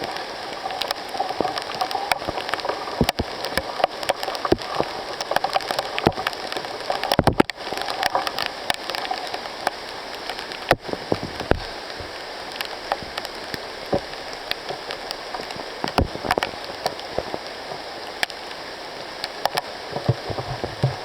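Steady rain: an even hiss with many distinct drops striking close by, and one louder knock about seven seconds in.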